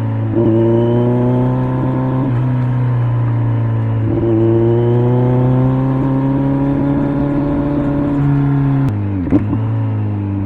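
Kawasaki Z900's inline-four engine through an LCI aftermarket muffler, pulling under throttle, its pitch climbing steadily with gear changes about two and four seconds in. Near the end the revs drop sharply as the throttle closes, with a single sharp pop from the exhaust.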